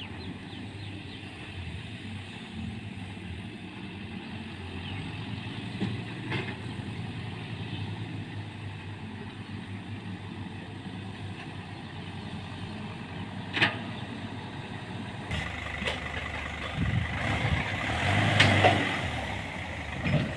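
Heavy vehicle engine, likely a truck, running steadily at low revs with a few isolated knocks; about three quarters of the way through it grows louder and rougher, peaking shortly before the end.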